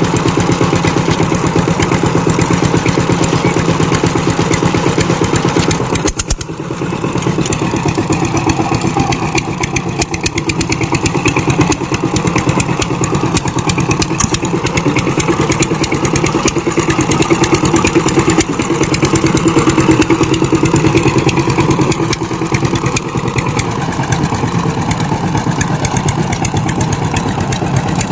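Power tiller engine running steadily with a rapid, even firing beat. There is a brief dip about six seconds in, and it runs a little louder in the second half.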